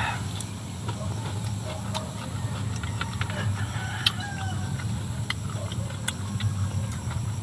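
Close chewing of crunchy cucumber with sharp wet mouth clicks, over a steady low rumble. A chicken clucks faintly in the background about three to five seconds in.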